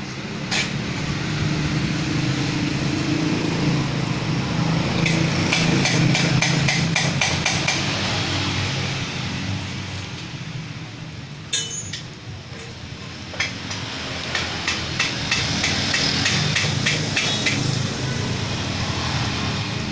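Honda Brio engine running through an aftermarket exhaust with a trial muffler fitted, a steady exhaust note. Two runs of rapid metallic clicking or tapping come through, around five seconds in and again around fifteen seconds in.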